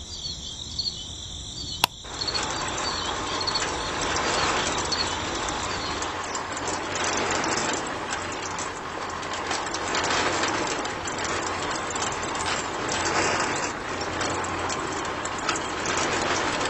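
Small DIY model concrete mixer switched on with a click about two seconds in, then its small electric motor running steadily, turning the drum with a gritty whir over a low hum.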